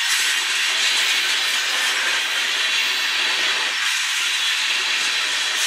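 Freight train tank cars rolling past at close range: a steady, even rush of steel wheels on rail.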